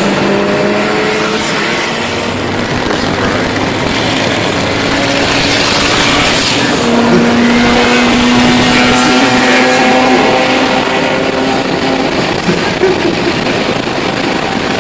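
Race car engines running hard during a drag race, their tone holding and then jumping in pitch, with heavy noise over it.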